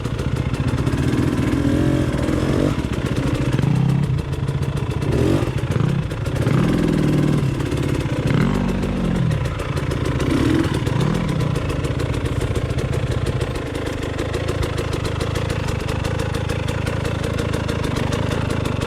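KTM 300 XC-W two-stroke dirt bike engine, revved up and down several times while riding over rocks, then settling to a steady idle for the last few seconds.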